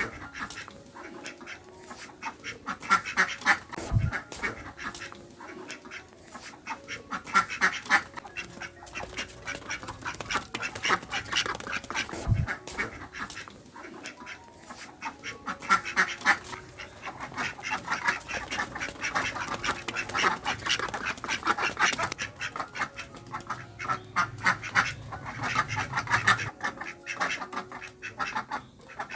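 Ducks quacking in rapid runs of calls, one run after another with short pauses between. A dull knock comes about four seconds in and another about twelve seconds in.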